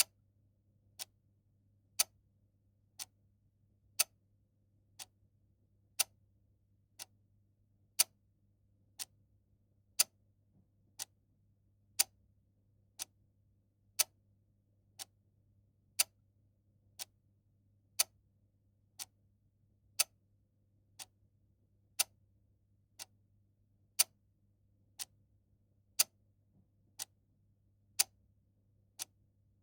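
Mechanical clock ticking once a second, the ticks alternating louder and softer in a steady tick-tock, over a faint low hum.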